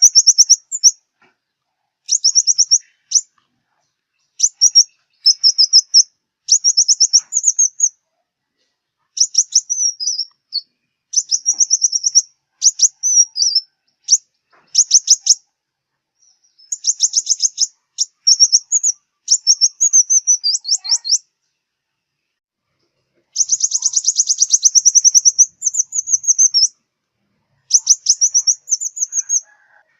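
Sunbird song: repeated short phrases of rapid, high-pitched chirping notes, each phrase lasting a second or two with short pauses between. The longest, densest phrase comes about two-thirds of the way in.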